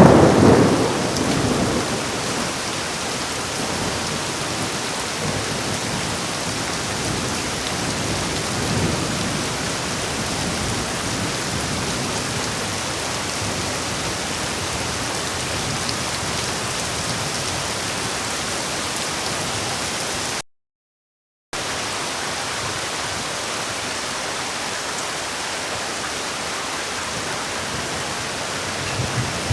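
Heavy, steady rain with a loud thunderclap right at the start that rumbles away over about two seconds, and a softer roll of thunder about a third of the way in. The sound cuts out completely for about a second past the two-thirds mark.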